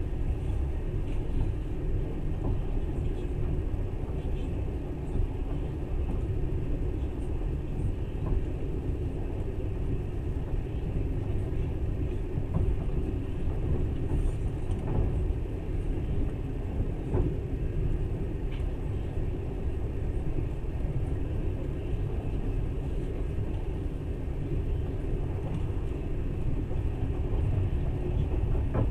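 Passenger train running steadily, heard from inside the carriage: an even rumble of wheels on the rails, with a few faint scattered clicks.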